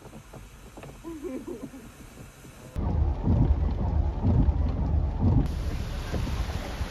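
Gusty low rumbling of wind buffeting the microphone in stormy, rainy weather, starting suddenly about three seconds in after a quieter stretch.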